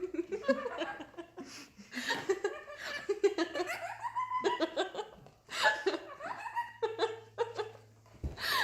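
Repeated bursts of laughter and giggling, in short stretches with brief pauses between.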